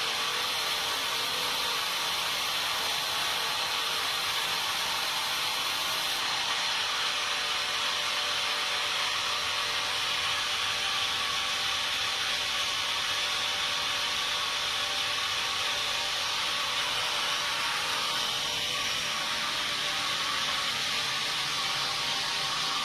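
Sawmill machinery running with a steady whir and hum that holds without a break.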